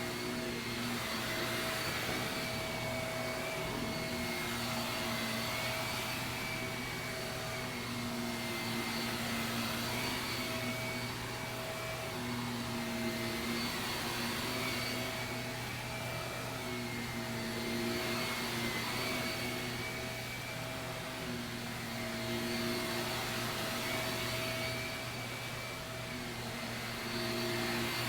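Shark vacuum cleaner running on carpet: a steady motor hum with a high whine, the sound swelling and easing every few seconds with the back-and-forth strokes.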